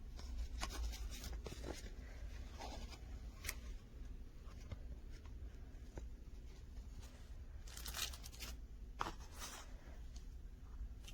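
Faint scattered rustles and clicks over a low steady hum, with a brief louder rustle about eight seconds in and another a second later.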